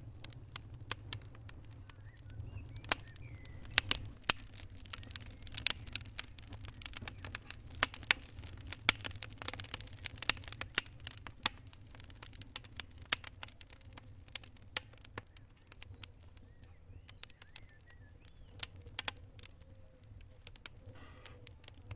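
Fire crackling: irregular sharp pops and snaps over a low steady rumble, the pops thickest in the first half.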